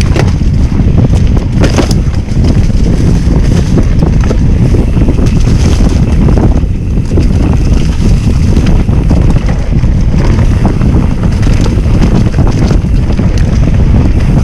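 Wind buffeting the microphone of a bicycle moving at about 24 km/h, a loud, steady rumble with a few brief knocks.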